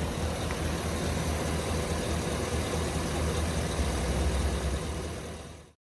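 2019 Chevrolet Silverado 2500 HD pickup's engine idling steadily, a low even rumble that cuts off suddenly near the end.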